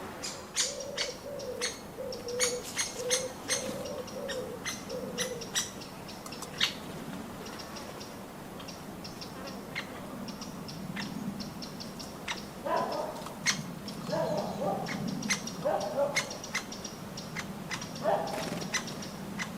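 A dove cooing in a run of soft low notes for the first five seconds, with four more groups of low calls in the second half. Many short, sharp, high chirps or ticks from smaller birds come throughout.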